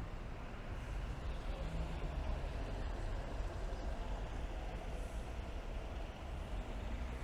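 Steady city street traffic: a continuous low engine and road rumble under a wash of rain.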